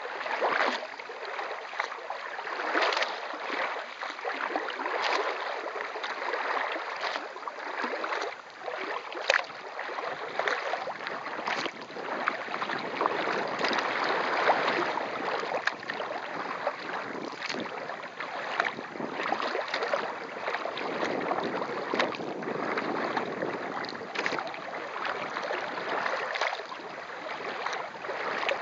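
Kayak under way: water splashing and rushing against the boat as it is paddled, with a splash about every two seconds, and wind on the microphone.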